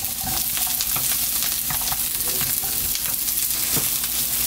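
Sliced green onions and cheongyang chili peppers sizzling in hot oil in a nonstick pan, with the scrape and tap of a wooden spatula stirring them.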